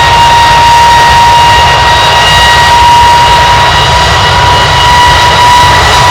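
Embraer E195-E2's Pratt & Whitney PW1900G geared turbofans running at high take-off power: a loud, steady rumble with a held high whine on top.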